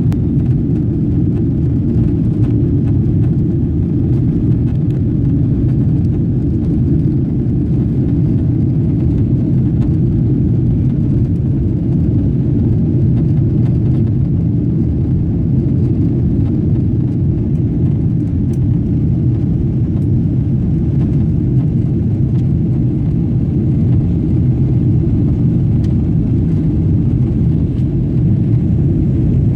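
Steady low rumble of a Boeing 777-200 airliner heard from inside the passenger cabin, the engines and the aircraft's motion making an even, unchanging drone.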